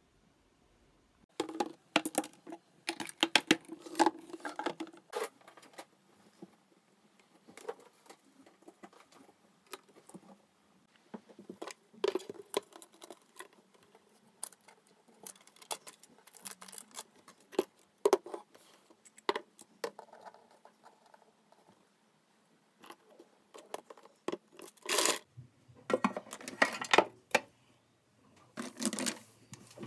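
Small objects being handled and set down on a desk: sharp clicks and taps in uneven clusters, mixed with paper-like rustling and crinkling, starting about a second and a half in.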